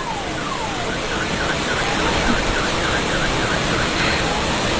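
Car alarm sounding over the steady rush of heavy rain and floodwater: a couple of falling sweeps, then a fast run of short repeated chirps.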